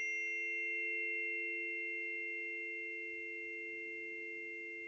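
Two planetary tuning forks ringing together as two steady, pure tones, slowly fading after being struck.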